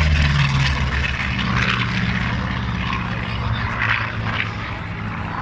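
Propeller-driven aerobatic plane's engine droning, its pitch dropping a little in the first half-second, then steady as the sound slowly fades.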